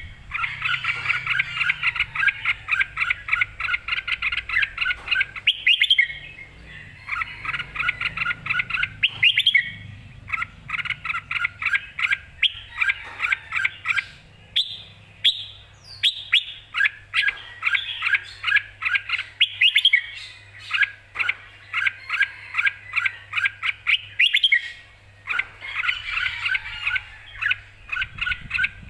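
Red-whiskered bulbul singing: fast runs of repeated chirping notes in phrases a few seconds long, with short pauses between them.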